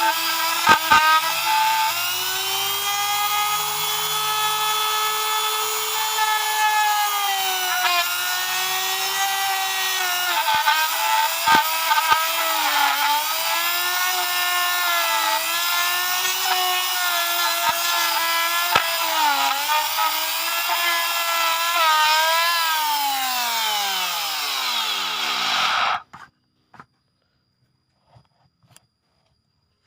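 Electric wood mortising machine's motor running at high speed, its whine dipping in pitch again and again as it bites into the wood. Near the end it is switched off and winds down with a falling whine, then stops, leaving a few faint clicks.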